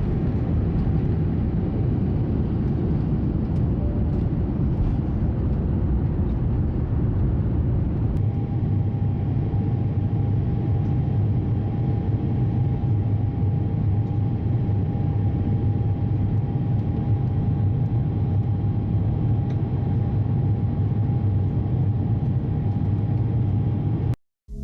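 Steady low rumble of a moving vehicle heard from inside its cabin, with a thin steady hum tone joining about eight seconds in; it cuts off abruptly near the end.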